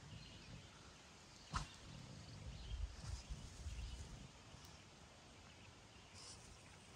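Wind buffeting the microphone in uneven gusts that ease off about four seconds in, with faint bird chirps and a single small click about a second and a half in.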